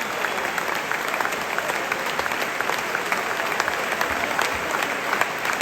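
Football stadium crowd applauding: a steady, dense patter of many hands clapping.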